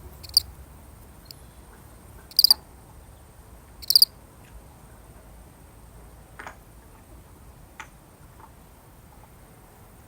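A lone field cricket chirping: three short, high, pulsed chirps about every two seconds in the first four seconds, then it falls silent.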